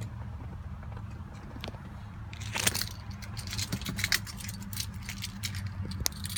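A bunch of keys jangling and clicking in the hand, starting about two seconds in and going on irregularly, over a low steady hum.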